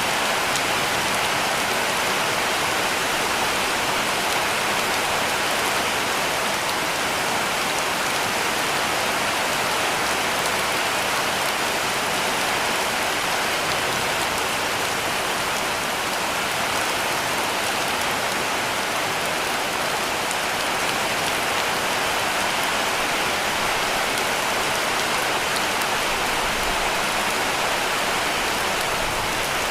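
Heavy rain falling steadily on a cabin roof: an even, unbroken hiss.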